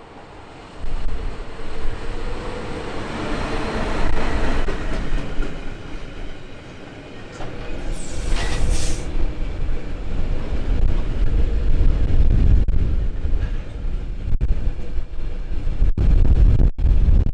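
Class 140 electric locomotive passing with a train of loaded double-deck car-transport wagons: a steady hum as the locomotive goes by, then the heavy rumble of the wagons' wheels rolling past, with a brief high-pitched screech about eight seconds in.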